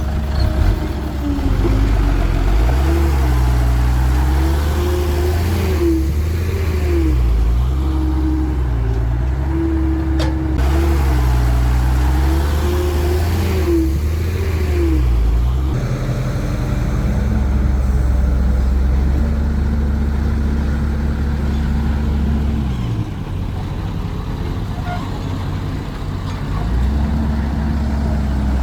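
Cat 312 hydraulic excavator working: its diesel engine runs under changing load, with a whine that rises and falls as the hydraulics dig and swing. Near the end it eases lower for a few seconds, then picks up again.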